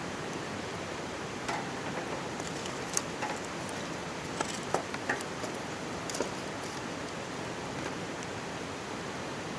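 Wood campfire crackling, with a handful of sharp pops in the first six seconds and the sharpest about three seconds in, over the steady rush of a mountain stream.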